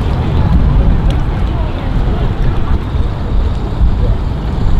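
Boat motors running at a boat ramp, with wind buffeting the microphone as a steady low rumble and faint voices in the background.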